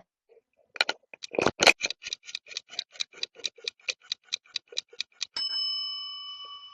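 Clock-ticking countdown sound effect, a quick even run of about five ticks a second, ending a little past five seconds in with a bright ding that rings and fades over about a second and a half.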